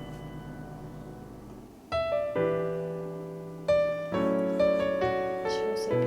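Background piano music: slow, gentle notes and chords, with new chords struck about two seconds in and again near four seconds.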